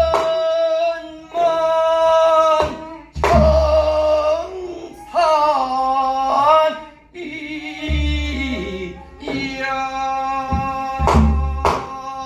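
Korean namdo folk singing: a solo voice holds long notes that bend and waver in pitch, with sharp drum strokes every few seconds.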